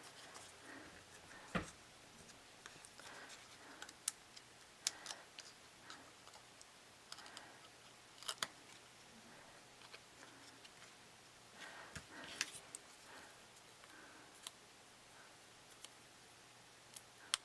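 Card stock being handled and pressed into place on a work table: scattered light taps and brief rustles of paper, with quiet stretches between them.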